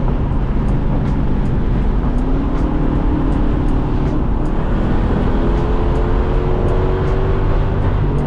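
Lexus SC400's 4.0-litre V8 with a loud exhaust, running under steady load while driving. Its note climbs slowly in two long stretches over a heavy, steady low rumble.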